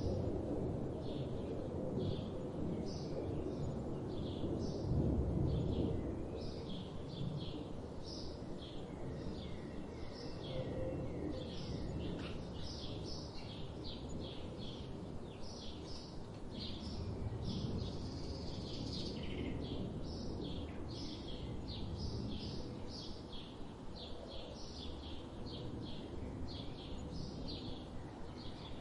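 Birds chirping: many short, quickly repeated high chirps, several birds overlapping, over a low background rumble that is louder for the first six seconds.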